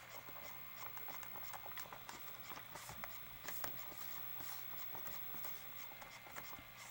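Faint, irregular light clicks and scratches from a VCR being handled, over a steady low hum.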